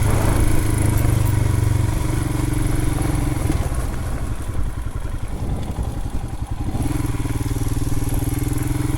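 The single-cylinder engine of a 2020 Royal Enfield Himalayan motorcycle running steadily under way. A few seconds in it eases off to a slower, pulsing beat for about three seconds, then picks up to a steady note again.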